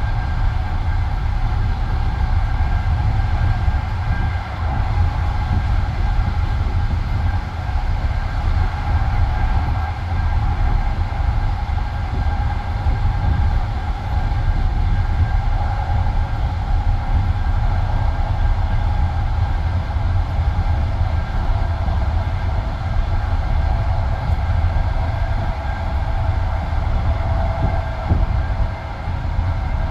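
Passenger train carriage running along the line, heard from inside by the window: a steady low rumble of wheels on rail with a few steady higher tones running over it.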